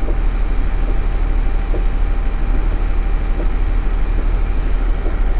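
Tata Prima 2830.K truck's diesel engine idling steadily, an even low rumble.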